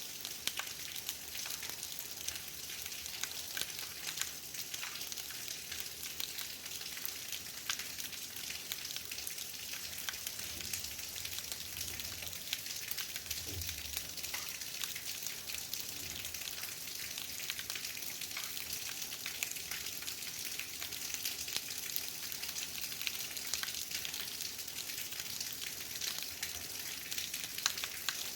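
Heavy rain falling: a steady hiss of many small, crackling drop impacts. A faint, low rumble of distant thunder comes about halfway through.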